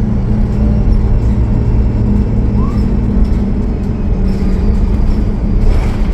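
Cummins ISL9 diesel engine of a Gillig Low Floor transit bus running steadily under way, a loud low drone. A brief rush of noise comes near the end.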